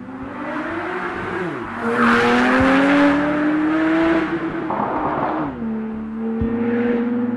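Porsche 991.2 Turbo S twin-turbo flat-six engine through a Kline Innovation Inconel exhaust, revving up twice, the second rev longer, then dropping back to a steady idle about five and a half seconds in.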